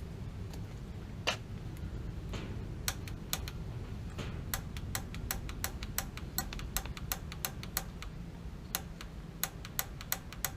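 Pilot igniter on a gas water heater clicking repeatedly while the pilot is relit: a single click, then from about three seconds in a run of sharp ticks, roughly two to three a second, over a steady low rumble.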